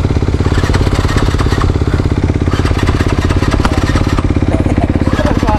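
Dirt bike engine idling steadily, with an even rapid beat.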